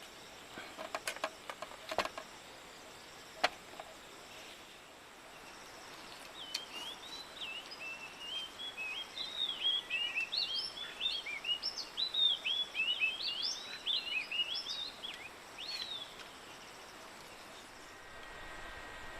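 A songbird sings a long, rapid run of chattering, warbling whistled notes from about six seconds in to about sixteen seconds, over a steady outdoor hiss. A few sharp clicks come in the first few seconds.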